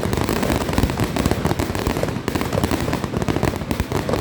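Fireworks going off in a dense barrage, many bangs in quick succession with no pause.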